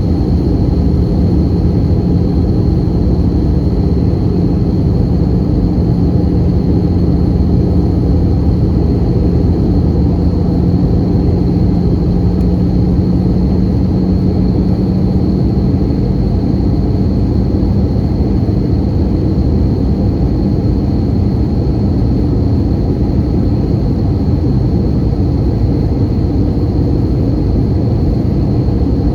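Airbus A320 cabin noise: a steady roar of engines and airflow heard from inside the passenger cabin, with a low hum in it that fades out about two-thirds of the way through.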